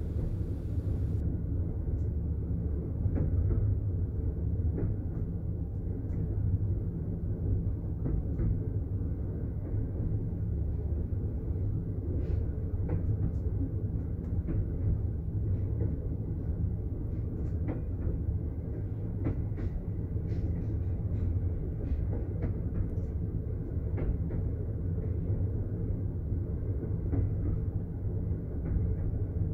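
Sleeping-car passenger train running along the track, heard from inside the compartment: a steady low rumble with light clicks scattered through it.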